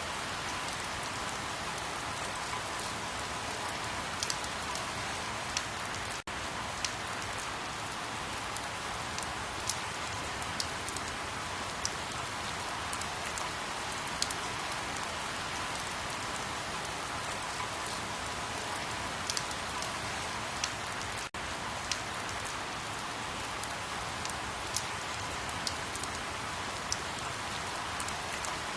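Steady rain falling, an even hiss with scattered sharper drop ticks. The sound dips out for an instant twice, about 6 and 21 seconds in.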